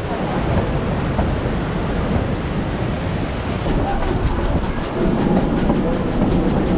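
Durango & Silverton narrow-gauge steam train running along the track: a steady rumble and rattle of the cars' wheels on the rails, louder from about five seconds in.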